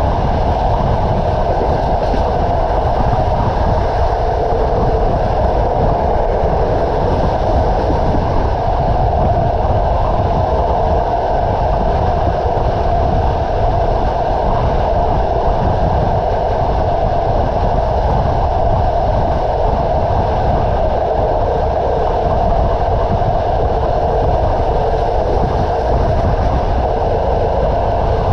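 A train running along the rails, a steady rolling noise of its wheels with a deep rumble underneath, heard from on board.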